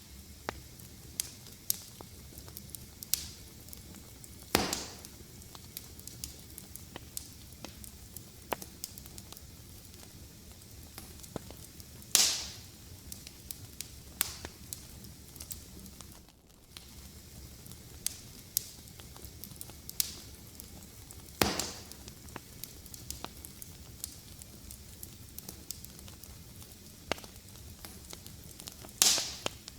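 Wood fire crackling: a steady low hiss with many small clicks and four loud, sharp pops spaced several seconds apart.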